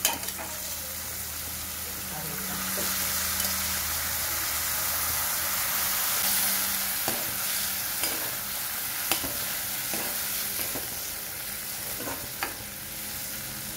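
Steamed hyacinth bean pods sizzling in hot spiced oil in a kadhai, stirred with a metal ladle that clinks against the pan several times.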